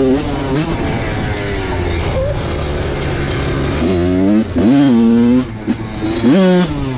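Small dirt bike engine revving under throttle, its pitch holding, dropping and climbing again with sharp rises about four and six seconds in.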